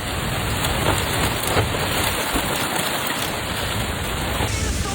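Heavy rain pouring down in a thunderstorm, a steady hiss.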